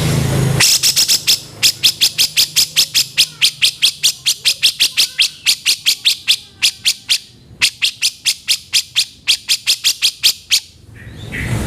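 Cucak jenggot (grey-cheeked bulbul) calling a rapid run of short, harsh notes, about four to five a second. There is a brief break past the middle, and the run stops shortly before the end.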